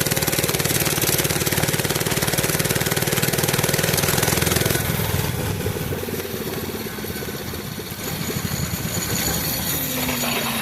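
A mini bike's small engine running, its rapid firing strongest for the first five seconds, then easing off before picking up again about eight seconds in.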